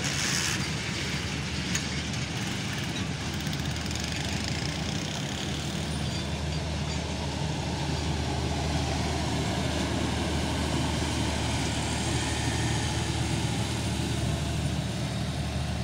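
Passenger train coaches rolling slowly past over a steady low engine drone, the diesel generator of the train's power van running.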